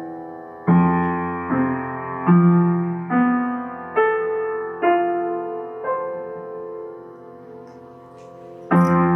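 Improvised piano playing: a slow melody of notes struck about once a second over a sustained low note, which fades and rings out before a fresh chord is struck near the end.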